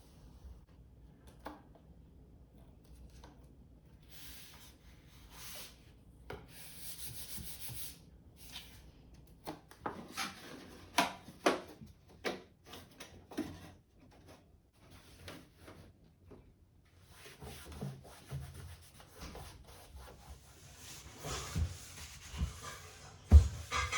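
Rubbing and scraping with scattered knocks and clicks, as of objects being handled, with a few louder thumps near the end.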